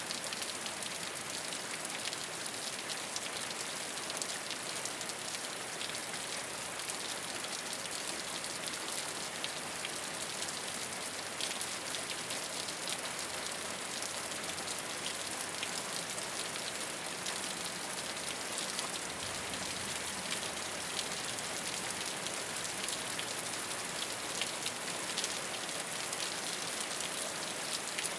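Steady rain falling on a rooftop: an even hiss dense with small drop ticks.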